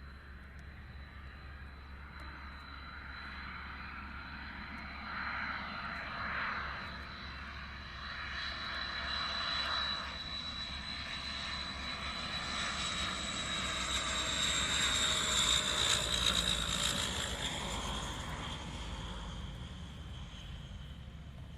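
A YS-11 turboprop's twin Rolls-Royce Dart engines passing, with the Dart's steady high-pitched whine over the propeller and engine noise. The sound grows louder to a peak about three-quarters of the way through, then fades as its pitch drops slightly.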